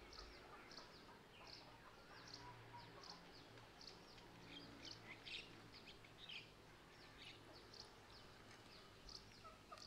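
Faint, near-silent outdoor quiet with small birds chirping rapidly in the background: many short, high chirps all through.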